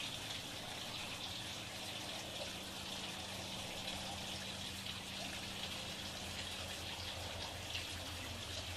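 Steady running, splashing water, with a faint low hum underneath.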